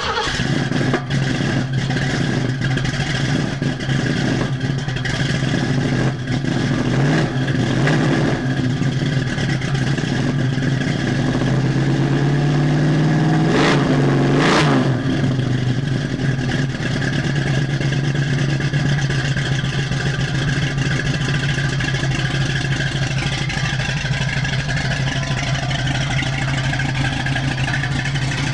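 Freshly rebuilt 289 small-block V8 of a 1965 Ford Mustang, with a Comp 268 cam, long-tube headers and Flowmaster 40 series mufflers, running on its first start-up at a steady idle. It is blipped slightly a few times early on. About halfway through it revs up slowly and falls back quickly to idle.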